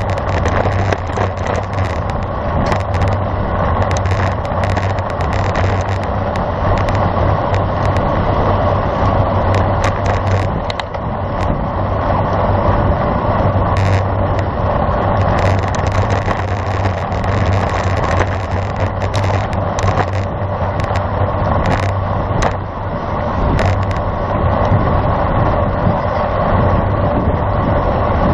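Steady rushing wind and road noise on the microphone of a camera riding on a moving road bicycle, with a constant low hum and scattered brief clicks.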